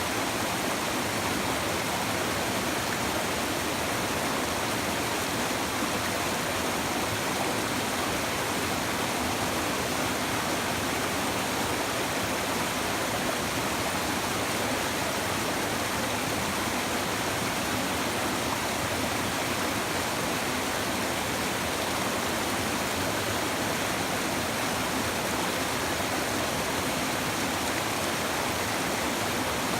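A shallow river babbling over stones, a steady, even rushing of water.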